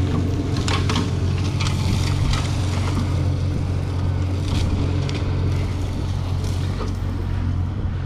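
Tractor engine running steadily at a constant low drone, with scattered sharp crackles and clicks over it.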